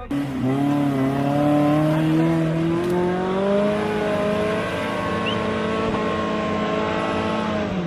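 Modified Maruti Suzuki Gypsy's engine running at high revs under load as it climbs a steep dirt slope, its pitch rising over the first few seconds and then holding steady.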